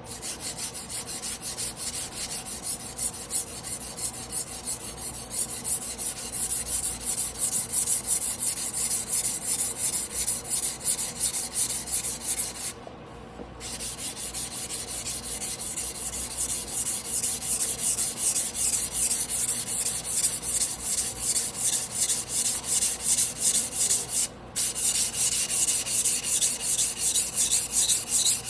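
Carbon-steel yanagiba blade being hand-sharpened on a whetstone: quick, even back-and-forth rubbing strokes with a rasping grind, broken by two short pauses partway through.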